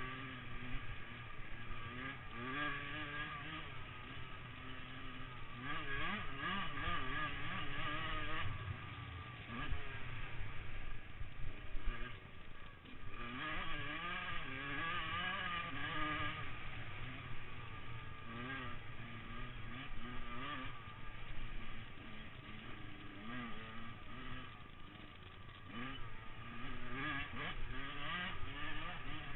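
Motocross motorcycle engines revving, the pitch rising and falling again and again as the bikes throttle up and back off, getting louder for a few seconds at a time as they pass.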